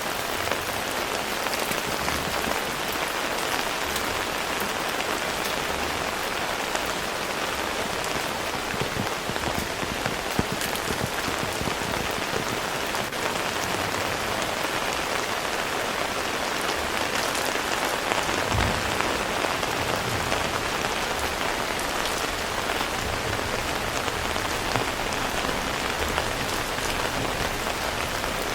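Heavy rain falling steadily, a dense even hiss of drops on surfaces with scattered sharper drop ticks.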